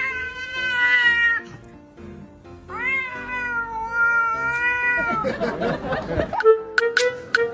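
A cat giving two long, drawn-out meows; the second rises sharply at its start and then holds. Music plays underneath, with short clicks near the end.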